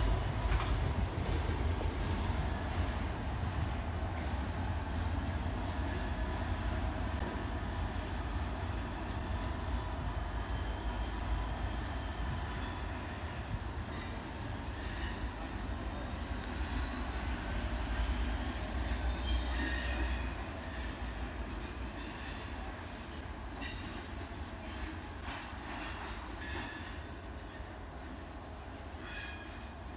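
Union Pacific freight train rolling away on steel wheels: a low rumble with a long, wavering high-pitched wheel squeal and scattered clicks. The squeal fades and the rumble drops about twenty seconds in, and the whole sound grows fainter as the train recedes.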